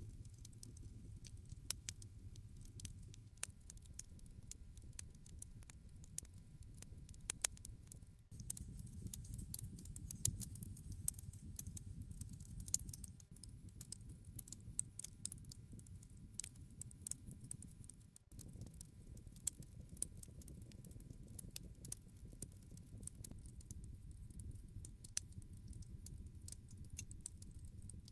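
Wood campfire crackling: frequent sharp pops and crackles over a low steady rumble of burning. The sound shifts abruptly twice, about 8 and 18 seconds in.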